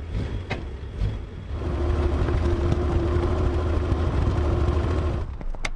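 Car engine running steadily, growing louder about a second and a half in, then cutting off suddenly near the end, followed by a few sharp clicks.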